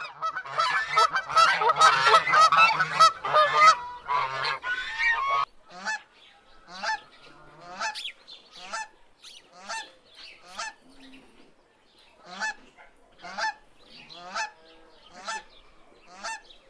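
A flock of domestic geese honking: a dense chorus of many overlapping calls for about the first five seconds, then separate honks, roughly one or two a second.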